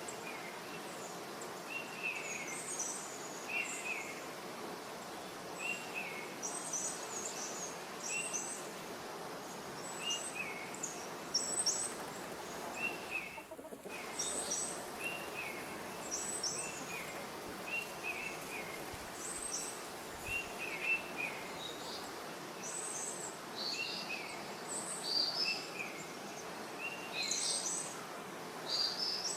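Birds chirping: short chirps repeated every second or so at a lower and a higher pitch, over a steady outdoor hiss, with a brief break about halfway.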